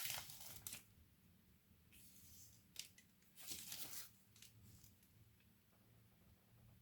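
Faint handling noise: a few short scraping or rustling bursts, with one sharp click about three seconds in.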